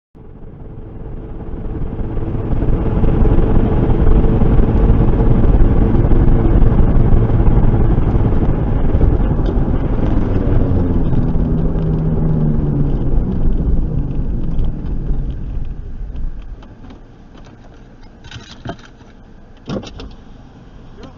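Motor vehicle engine and road noise that builds over a few seconds and holds loud for around ten seconds. Its engine pitch then slides down and the sound fades away, followed by a few sharp clicks near the end.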